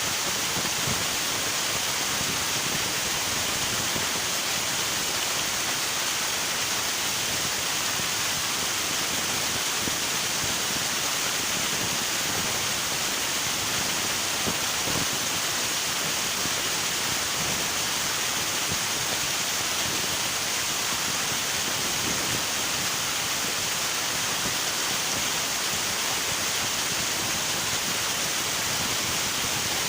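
River water rushing steadily, an even, unbroken hiss-like roar of flowing water.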